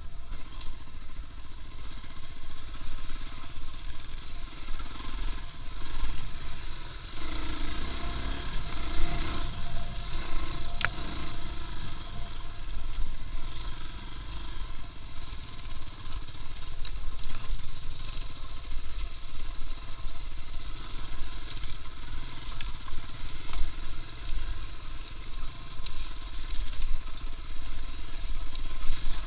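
A motor vehicle running steadily, with a low engine-and-road rumble and occasional scrapes and rattles.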